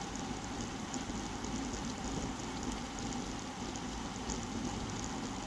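Wind rushing over a bike-mounted action camera's microphone with road-bike tyre noise while riding, a steady noise with faint scattered ticks.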